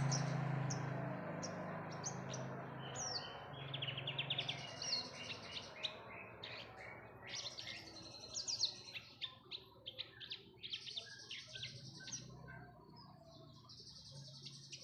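Horsfield's bush lark (branjangan) singing a quick run of high chirps, short trills and rapid notes, used as a lure to set other caged birds singing. A low hum and noise fade away over the first few seconds.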